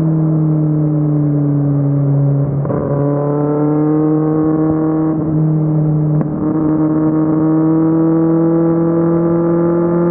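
Kawasaki Z750's inline-four engine running under steady throttle on the road, a loud even drone. Its pitch sags slightly, then climbs gently, with two brief dips in the drone about two and a half and six seconds in.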